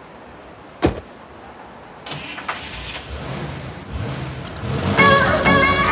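A car door shuts with a single thump about a second in. About two seconds in, the Dodge Challenger's engine starts and runs low, growing louder, and music comes in near the end.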